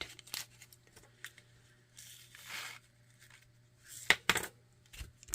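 Light clicking and crinkling from small plastic bags and containers of diamond-painting drills being handled and put away, with a soft rustle about two seconds in and a short flurry of clicks near the four-second mark.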